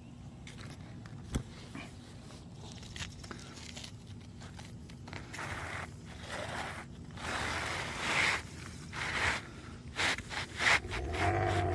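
Asphalt shingles scraping and rubbing against each other as a shingle is slid and worked into position on the roof. The scraping comes in repeated strokes that grow louder in the second half, with a single sharp tap about a second and a half in.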